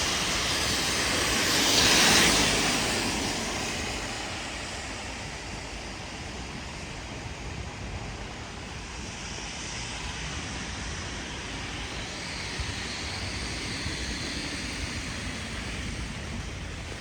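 Heavy rain falling steadily on a street, with a passing vehicle's hiss on the wet road swelling in the first couple of seconds and fading away.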